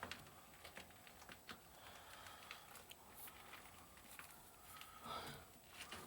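Near silence with faint, scattered clicks and scuffs, and a slightly louder scuff about five seconds in.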